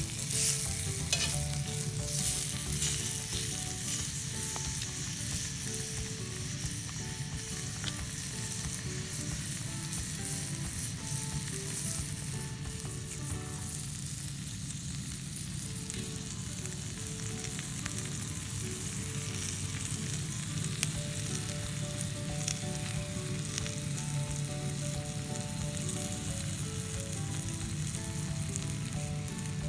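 Wood ear mushrooms sizzling steadily in oil in a campfire frying pan, with a few louder knocks of the pan or utensil in the first few seconds.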